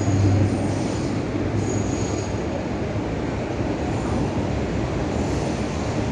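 Cabin noise of a moving bus heard from inside: a steady low engine hum and road rumble with a faint high whine over it.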